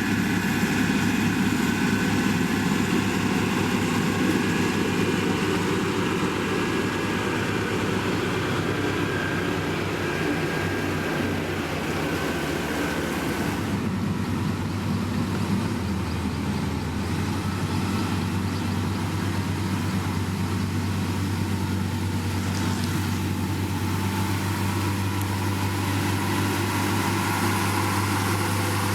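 Diesel engine of heavy road-construction machinery running steadily, with a low drone whose note changes about halfway through.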